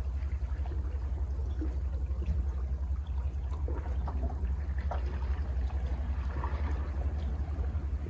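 Sea waves washing and trickling among rocks at the foot of cliffs, with small splashes over a steady low rumble.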